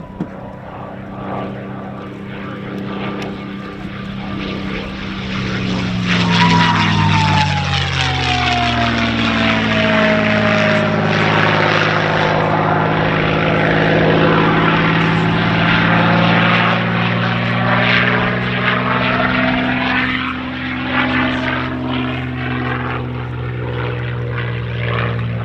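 A P-51D Mustang's V-12 Merlin engine making a pass. The drone builds, is loudest in the middle, and drops in pitch as the plane goes by about six to ten seconds in. A high whistle slides down in pitch with the engine's drop: this is the Mustang's whistle, said to come from air flowing over the gun ports. The engine drone then runs on steadily.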